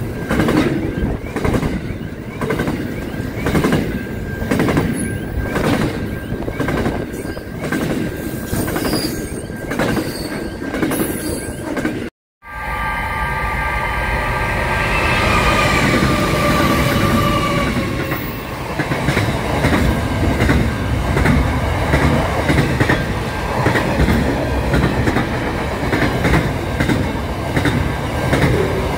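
Freight trains passing close by. First, a double-stacked container train rolls past with its wheels clicking over the rail joints in a steady rhythm. After a brief cut, a Pacific National intermodal freight hauled by NR-class diesel-electric locomotives approaches with a high ringing tone for a few seconds, then its container wagons rumble past.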